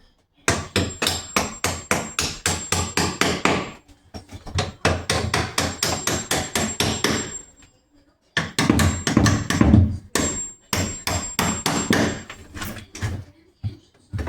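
Hammer striking in quick repeated blows, about four or five a second, in three runs with short pauses between them.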